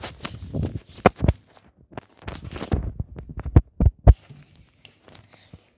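Irregular thumps and rubbing of handling noise on a phone's microphone as the camera is picked up and carried while walking.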